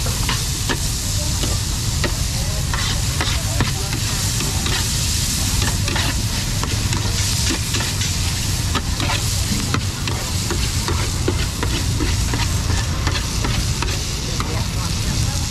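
Food sizzling in hot oil in a pan, with irregular clicks and scrapes from a cooking utensil stirring it, over a steady low rumble.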